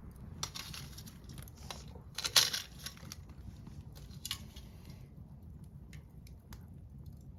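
A campfire of burning wood and pine cones crackling and popping in irregular bursts, over a low steady rumble. The biggest burst comes a little over two seconds in, and after about five seconds only scattered single pops remain.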